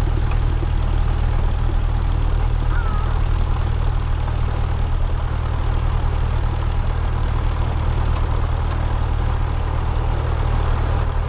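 Cessna 172R's four-cylinder Lycoming engine and propeller running steadily at idle on the ground, a constant low drone with no change in power.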